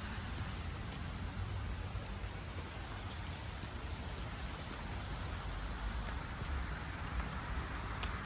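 A small bird gives the same short, high phrase three times, about three seconds apart: a falling note and then a quick run of notes. Under it runs a steady low outdoor rumble.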